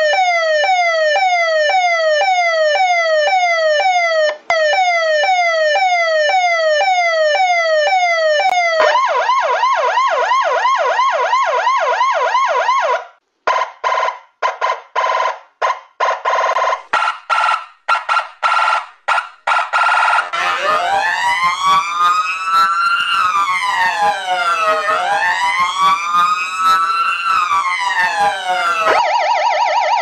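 Police car sirens in succession. First a loud siren repeats quick falling sweeps, about one and a half a second, then switches to a fast warble. After that come choppy bursts alternating between two pitches, and then a slow wail that sweeps down and back up.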